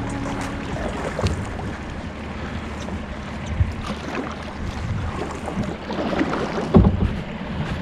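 Wind and water noise around a kayak on open water, with scattered light knocks and a louder thump near the end, as of gear or a paddle against the hull.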